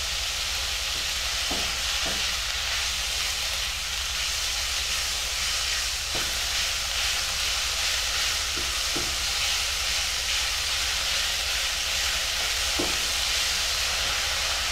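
Minced meat with onions and green chillies sizzling steadily in a non-stick wok, while a silicone spatula stirs it and now and then lightly knocks and scrapes the pan.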